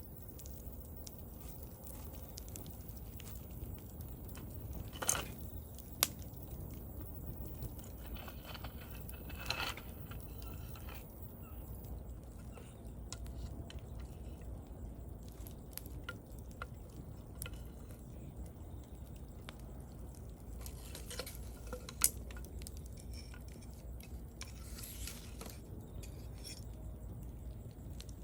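Wood fire burning: a steady low rumble with scattered small crackles, sharp pops about five, six and twenty-two seconds in, and brief hissing now and then.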